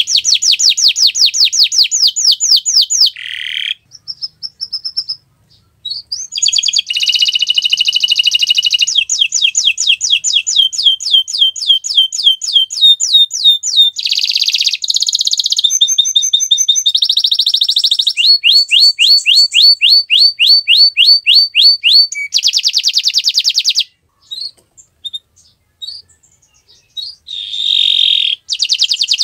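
Domestic canary singing: a long song made of fast, high trills, each a rapid run of one repeated note, switching to a new trill every few seconds, with two short breaks.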